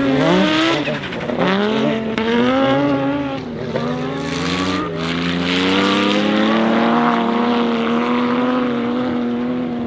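Audi Sport Quattro S1 E2's turbocharged inline five-cylinder engine accelerating hard through the gears. The pitch climbs and drops back at shifts about one, three and a half and five seconds in, then holds a steadier note that slowly sags.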